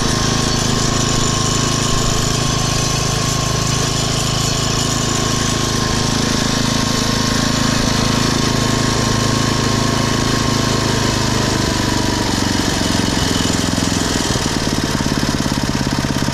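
A 5 HP horizontal-shaft Briggs & Stratton engine on a garden tiller runs at a steady speed without surging. Its hunting has been cured by a tune-up and a small carburettor mixture-screw adjustment. About twelve seconds in it is throttled down and its speed drops in steps to a smooth, slower idle.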